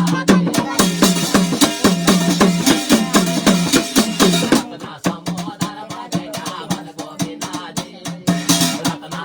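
Instrumental passage of Garhwali jagar music: fast, steady drumming over a sustained pitched drone. The strikes come thick and loud in the first half, then thin out and soften about halfway through.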